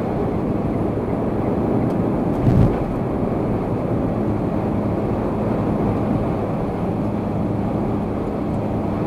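Steady road and engine noise of a car being driven, heard from inside the cabin, with a brief low thump about two and a half seconds in.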